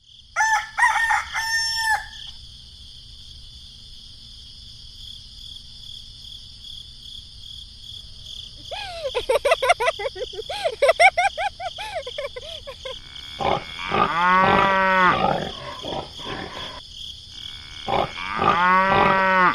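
Animal calls: several pitched cries, with the two loudest near the middle and at the end, over a steady high tone.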